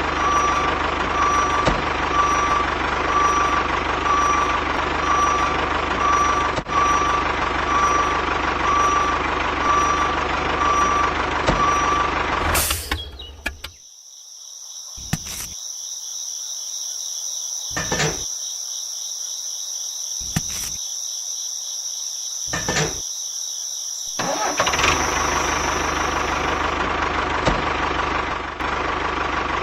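Miniature tractor running with a steady, engine-like noise and a faint pulsing whine. About 13 s in, this gives way to a thin high whine broken by five sharp knocks. The running noise returns about 25 s in.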